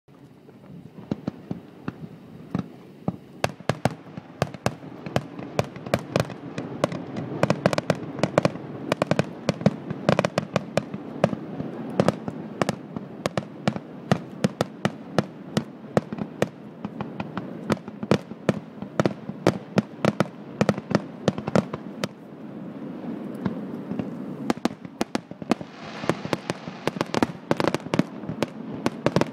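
Fireworks going off in rapid succession: many sharp bangs a second over a continuous rumble, starting about a second in, with denser crackling near the end.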